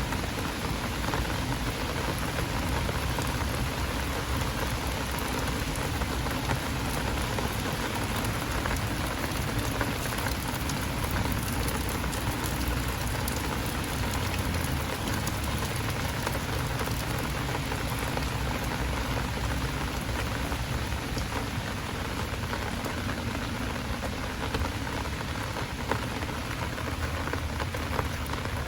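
Heavy downpour rain falling steadily, a dense even hiss of rain with many small drop ticks throughout.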